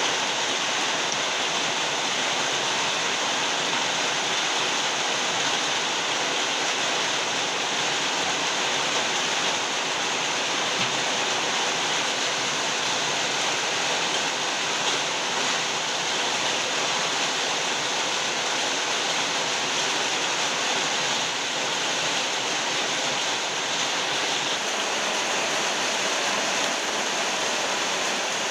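Very heavy rain pouring steadily, a dense even hiss with no breaks or thunder.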